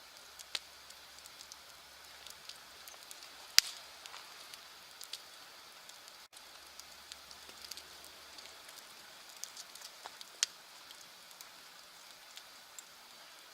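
Wood fire crackling: irregular sharp pops and snaps over a soft hiss, with a loud pop about three and a half seconds in and another about ten seconds in.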